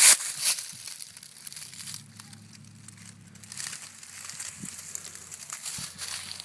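Crinkling and rustling noise, with a sharp loud burst right at the start and the rustling growing louder in the second half, over a faint steady low hum.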